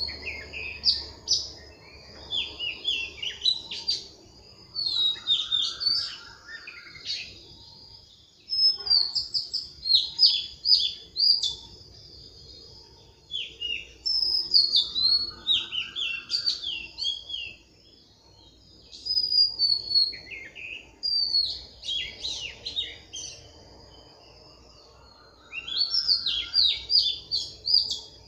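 Birds singing: high twittering, chirping phrases in bursts every few seconds, with a lower rising call now and then.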